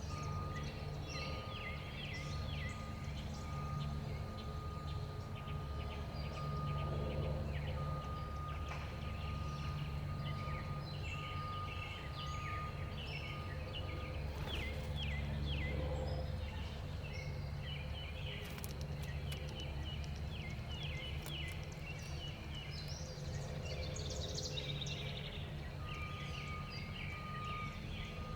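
Many small songbirds chirping and twittering constantly in quick overlapping calls, over a steady low rumble. A thin, steady high tone comes and goes.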